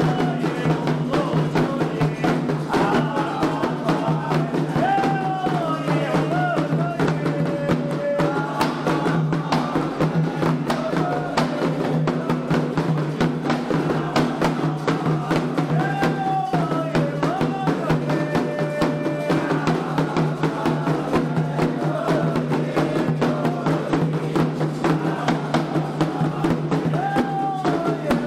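Candomblé xirê music: drums playing a fast, steady beat with a voice singing a chant that glides up and down over them.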